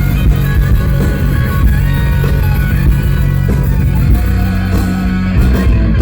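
Hard rock band playing live through a PA, an instrumental passage led by electric guitar over bass and drums.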